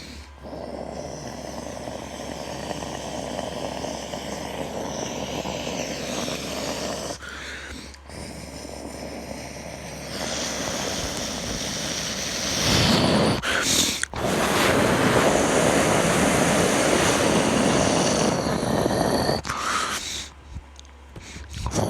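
Jet airliner engine noise mixed with wind rumbling on the microphone, growing louder about halfway through, with the sound dropping away briefly three times.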